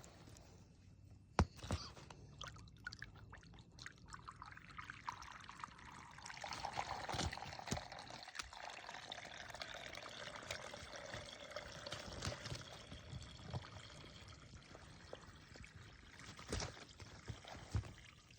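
Rainwater pooled on top of snow pouring and trickling down through a hole poked in the ice crust. A sharp knock and a few crackles of the ice come first; the draining water swells at about five seconds, its pitch sinking a little, then tapers off.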